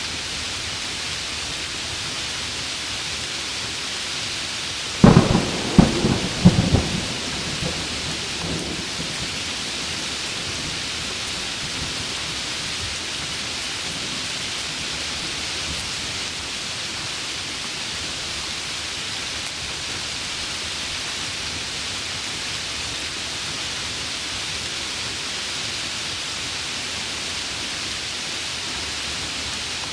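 Heavy rain falling steadily, with a thunderclap about five seconds in: several sharp cracks over a second or two, then a rumble that dies away within a few seconds.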